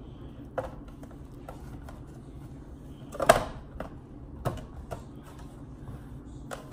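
Scattered clicks and knocks of items being handled and set into plastic bins, the loudest about three seconds in, over a steady low hum.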